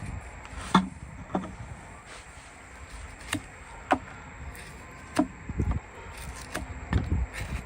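Hoof trimming: irregular sharp clicks and knocks a second or more apart, with a couple of duller thumps near the end.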